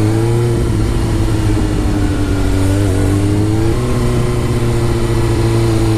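2005 Suzuki GSX-R600's inline-four engine heard from the rider's helmet: its note finishes climbing about half a second in, then holds steady while cruising. Heavy wind rush on the helmet microphone runs underneath.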